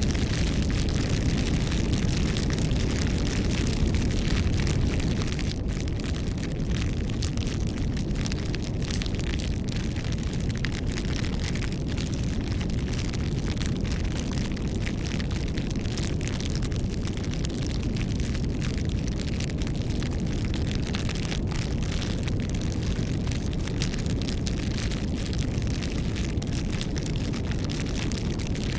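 A wood bonfire burning steadily, with a low rumble of flame under irregular crackles and pops from the burning wood.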